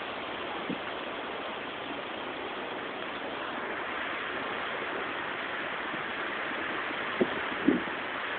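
Strong windstorm gusts rushing over the phone's microphone as a steady noise that grows a little stronger about halfway through. A dog barks twice near the end.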